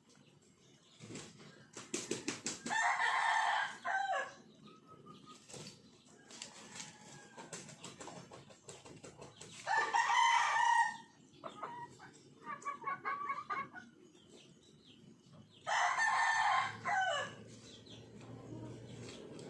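Rooster crowing three times, about six seconds apart, with shorter rapid clucking calls in between.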